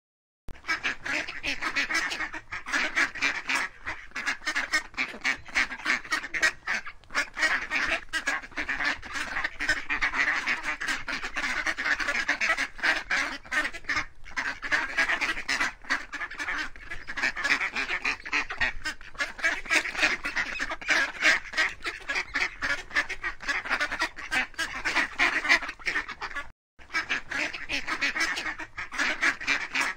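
A flock of farm waterfowl calling over one another without pause, in dense overlapping honks and quacks, broken by a brief gap near the end.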